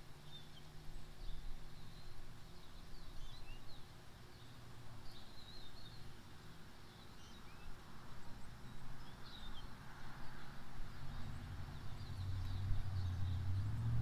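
Backyard birds giving scattered short, high chirps and calls over a low steady hum, which grows louder near the end.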